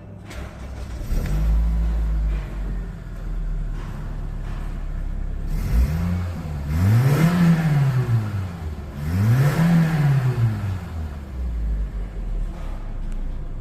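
Toyota 2ZZ-GE 1.8-litre twin-cam four-cylinder engine running at idle, then revved twice: the pitch climbs smoothly and falls back about six and about nine seconds in, before settling to idle again.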